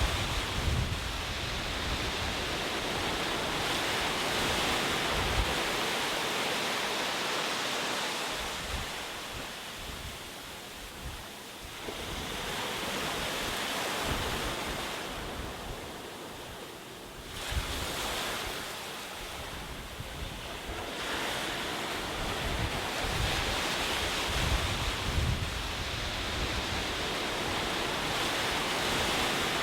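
Ocean waves surging and washing onto the shore in a continuous rush of surf. The rush eases twice, about a third of the way through and again past the middle, then builds back as the next waves break.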